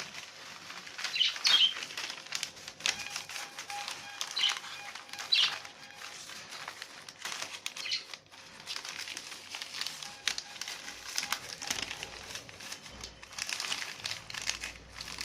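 Newspaper being folded and crumpled by hand, a long run of rustling and crackling. A few short budgie chirps sound over it in the first half.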